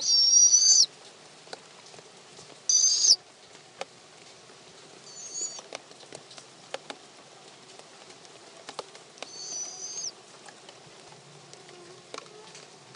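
Barred owl calling from the nest box with short, high, thin squeals. Two loud ones come at the start and about three seconds in, a fainter one comes later, and another follows near ten seconds. Scattered light taps and scratches of movement in the box run between the calls.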